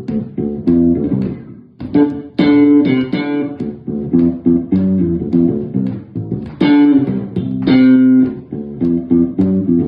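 Bass guitar played solo: quick runs of plucked notes, broken by a few louder notes left to ring.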